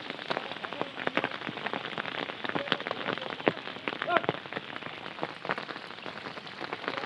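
Heavy rain falling steadily on a surface, a dense patter of many individual drops.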